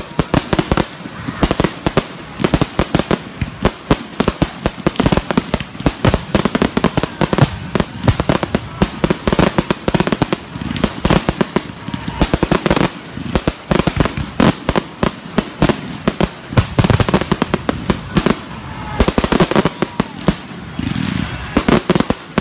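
Aerial fireworks display: a rapid, continuous barrage of sharp bangs and crackles from bursting shells, many a second.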